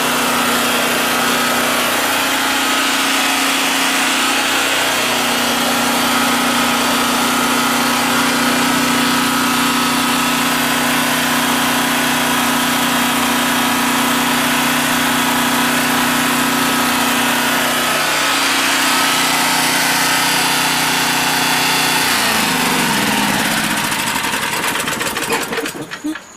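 Generac 4000EXL portable generator's engine running steadily during a final test after voltage and frequency adjustment. About 22 seconds in it is shut off, its pitch falling as it winds down to a stop.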